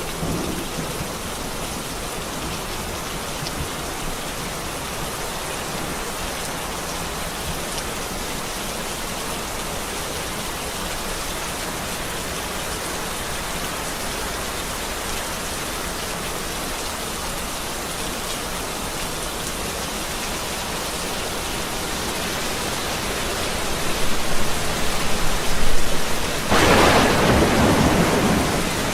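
Steady rain falling, with thunder rumbling in over the last several seconds and a loud peal of thunder near the end.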